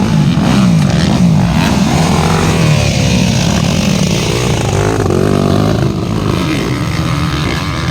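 Several motocross dirt bike engines revving at once, their pitches rising and falling and overlapping as the bikes are ridden hard.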